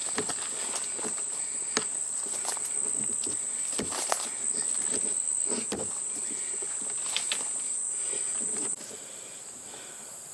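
Steady high-pitched late-summer insect chorus with footsteps along a trail. The insect drone drops away suddenly near the end.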